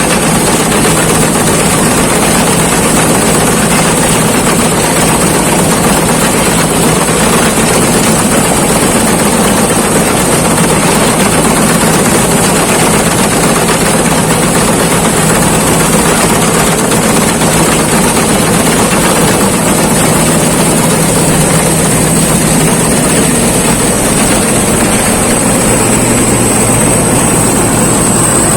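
Rice combine harvester running steadily at work: a loud, even mechanical noise with a thin high whine over it.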